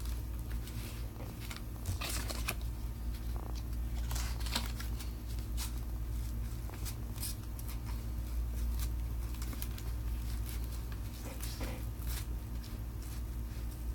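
A plastic opening card being worked under the glued glass of a Samsung Galaxy S7 Edge, giving irregular short scrapes and small crackles as the adhesive gives, over a steady low hum.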